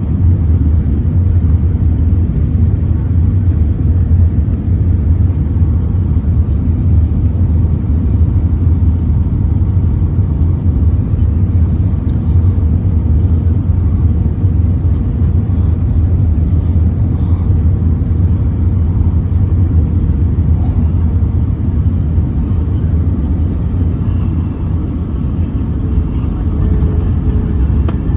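Jet airliner cabin noise: a steady low rumble of the engines and airflow, unchanging throughout.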